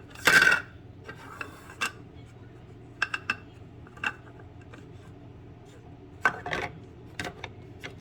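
Plastic parts of a Lavazza Jolie capsule coffee machine being handled: a short scraping slide just after the start, then scattered sharp clicks and knocks.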